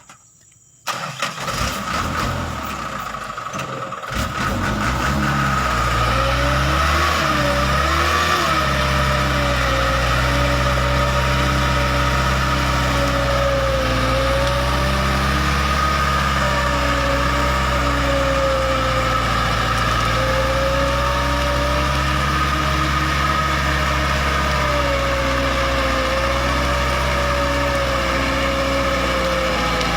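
A truck's engine starts about a second in and builds up over a few seconds. It then settles into steady running, its pitch wavering slowly up and down.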